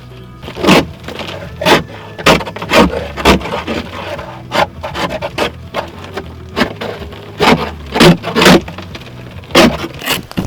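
Ice scraper scraping a thick glaze of freezing-rain ice off a car, about a dozen short, hard strokes at uneven spacing, roughly one a second.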